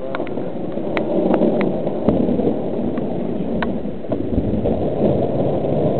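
Thunderstorm: a steady low rumble of thunder and rain, with a few sharp ticks in the first few seconds.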